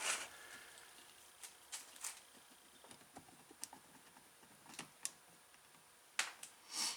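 Scattered light clicks and taps of metal parts as the end cap is worked off a golf cart starter/generator, with a louder knock and scrape about six seconds in.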